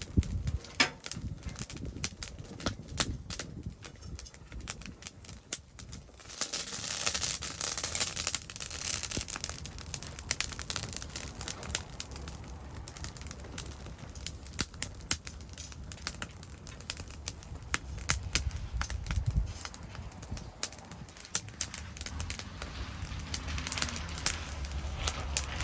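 Wood fire crackling and popping in a secondary-combustion fire pit, with a louder rushing hiss for several seconds from about six seconds in.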